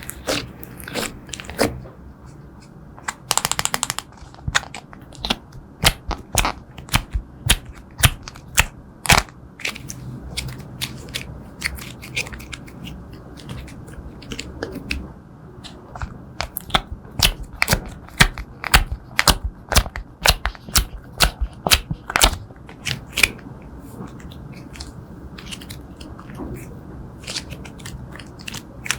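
Clear slime being mixed and squeezed by hand, with sharp, irregular pops and clicks as air pockets burst. A quick run of crackling clicks comes about three seconds in.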